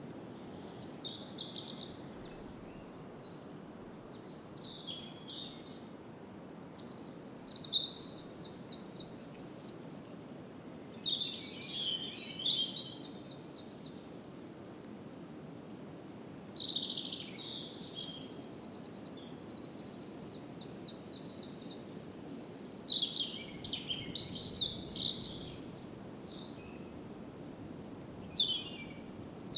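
A songbird singing phrases of rapid trills and chirps every few seconds, over a steady low rush of wind through branches.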